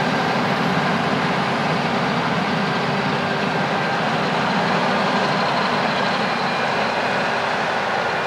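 Heavy farm machinery running steadily, a dense even engine and machine noise with a few faint steady whines on top.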